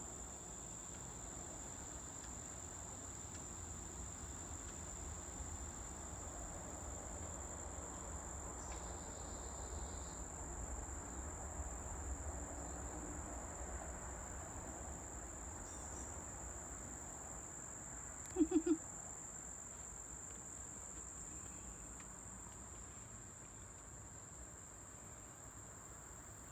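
Insects singing: one steady, unbroken high-pitched drone. About two-thirds of the way through, three quick low sounds come in a short burst, louder than the drone.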